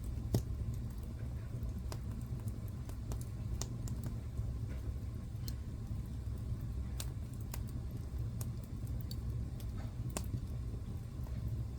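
Wood fire crackling in a fireplace: a steady low rumble with scattered, irregular sharp snaps and pops, the strongest just after the start.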